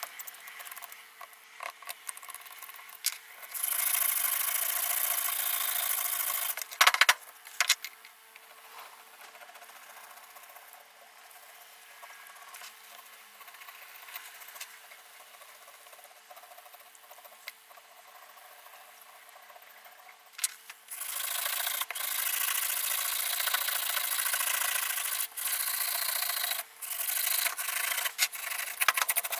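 Hand scraping and rubbing on parts of an old Makita electric planer during its restoration. The scraping comes in two long, loud stretches, with a few sharp clicks about seven seconds in and softer rubbing in between.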